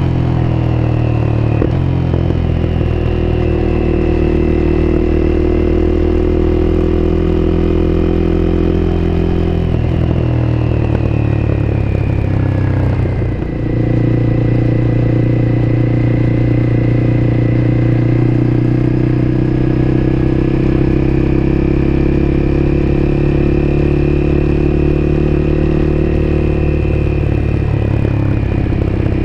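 Honda CBR250R's single-cylinder engine heard onboard, running steadily at a constant pitch. About halfway through, the engine note changes and briefly dips, then settles back to a steady pitch.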